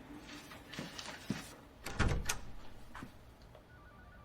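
A few light knocks and clicks, with one heavier thump about two seconds in.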